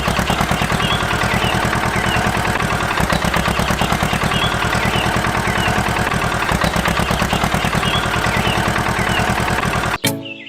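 Small engine running steadily at idle with a rapid, even putter. Birds chirp faintly behind it.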